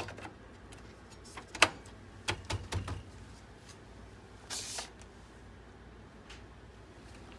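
Scattered clicks and light knocks of small hard parts and tools being handled while a desktop PC is worked on, with a short scrape about four and a half seconds in, over a low steady hum.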